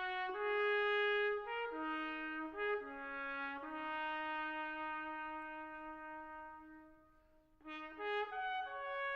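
Brass music, likely intro music: a slow line of held trumpet-like notes, one long note fading away about seven seconds in before the playing resumes.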